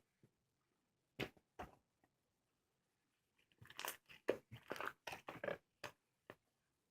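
Slime being squeezed and poked by hand, making wet clicking and crackling pops: a couple of single pops, then a quick run of them just past the middle, then a few more single clicks.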